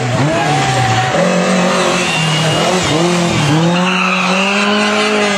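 Rally car engine revving hard through corners. The pitch dips and climbs again several times as the driver lifts off and changes gear.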